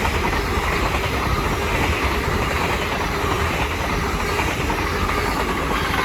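LNER Class 801 Azuma electric multiple unit passing through the station: a steady noise of wheels on rail and rushing air, with no let-up for the whole few seconds.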